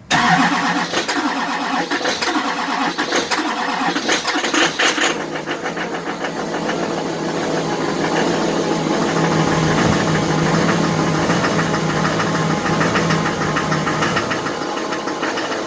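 2005 LLY Duramax 6.6-litre V8 turbo-diesel cold-starting at about 12 °F with the block heater off for hours: it fires up abruptly, runs unevenly for about five seconds, then settles into a steady cold idle.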